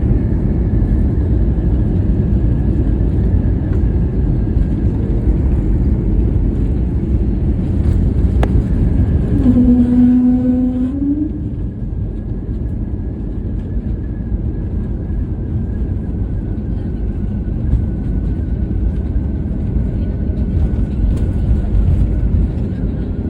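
Steady low rumble of a moving vehicle heard from inside its cabin, with a faint steady whine above it. About ten seconds in, a short pitched tone sounds for a second or so and rises at its end.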